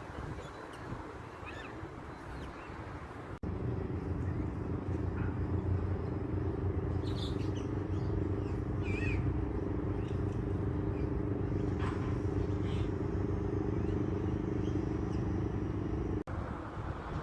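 Steady low engine hum, with a few short high bird chirps in the middle.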